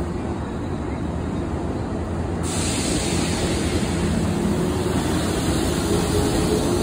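Yellow JR West electric train moving past a station platform: a steady rumble of wheels and motors with a low hum. A hiss joins suddenly about two and a half seconds in, and the sound grows slowly louder.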